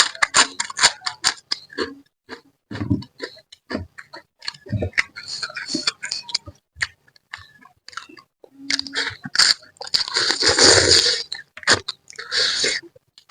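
Close-miked eating of a spicy catfish head: wet chewing and lip-smacking in quick, uneven clicks, with a couple of longer noisy sucking sounds near the end.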